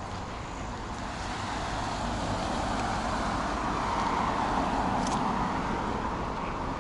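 A car driving past on a nearby street, its road noise swelling to a peak about four seconds in and then easing off.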